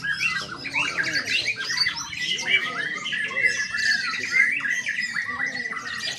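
Many songbirds singing and calling at once, their rapid chirps and trills overlapping densely, with one high note held steadily for long stretches.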